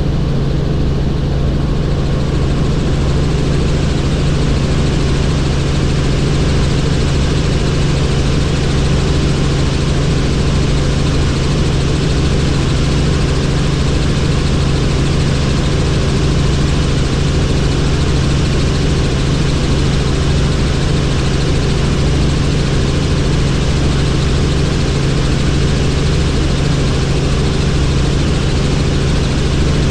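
Helicopter engine and rotor running steadily: a loud, even low hum over a wash of noise, unchanging throughout.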